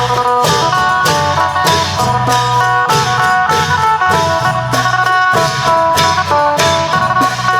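Isan phin (three-string lute) playing a lively melody over klong yao long drums and cymbals, with the percussion striking a steady beat about twice a second.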